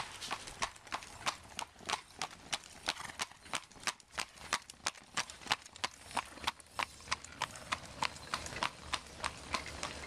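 Shod horse hooves clip-clopping on the paved road at a steady trot, a sharp, even run of clacks about five a second.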